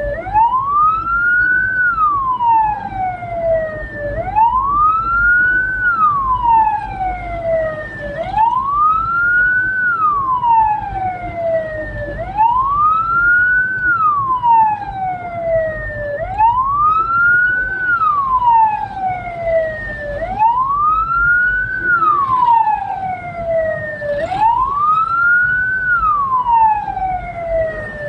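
Hearse siren wailing: each cycle sweeps quickly up in pitch, then falls slowly back down, repeating about every four seconds, over the low rumble of the moving vehicle.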